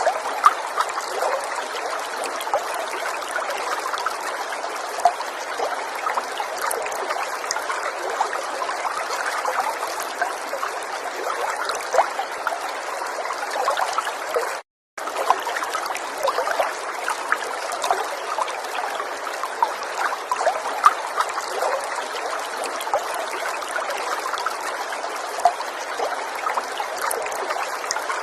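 River water flowing and babbling steadily over stones, with many small splashes and trickles. The sound cuts out to silence for a moment about halfway through, then resumes.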